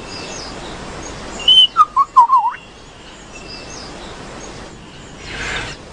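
Male superb lyrebird singing: a short high note, then a quick run of four loud whistled notes that dip and rise, the last sweeping up, as part of his display song to attract a female. Faint bird calls behind.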